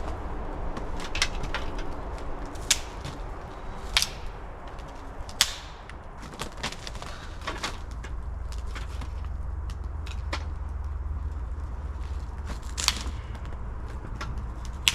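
Chopping blows on wood: sharp single strikes about every second and a half for the first five seconds or so, a few weaker knocks, then two more strong strikes near the end.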